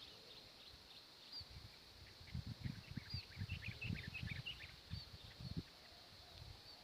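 Faint high chirps of small wild birds, a quick run of them in the middle, over low irregular knocks and rustling.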